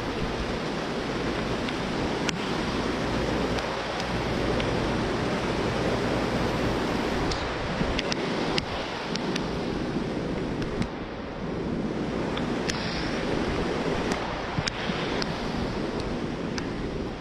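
Steady rushing noise of storm wind, with a few sharp ticks scattered through it.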